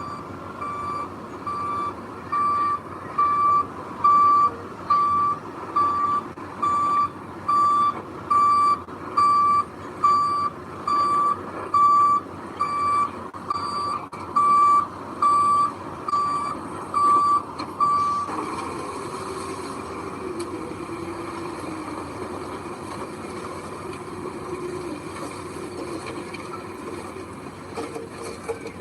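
Reverse alarm on a heavy truck beeping steadily, about one beep every 0.8 s, over its running engine: the truck is backing up. The beeping stops about two-thirds of the way through, leaving the engine running.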